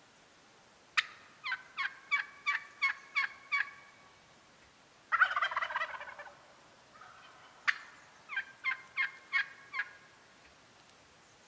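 Wild turkeys calling: a sharp cluck and a run of about seven yelps, a gobbler's gobble about five seconds in, then another cluck and a run of about six yelps.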